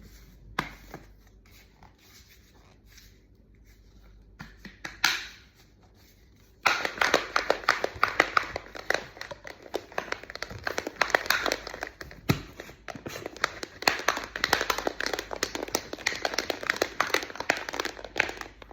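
Shaker container of whey protein powder and water being shaken hard, a rapid steady rattle that starts about a third of the way in and runs for about twelve seconds. Before it, a few sharp clicks of the container being handled and closed.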